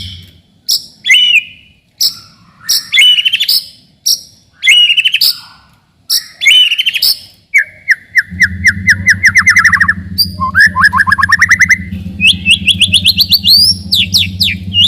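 White-rumped shama (murai batu) singing: short, loud phrases about once a second with pauses between, then from about halfway, long fast runs of rapidly repeated notes, some falling and some rising in pitch. A steady low hum joins in about halfway through.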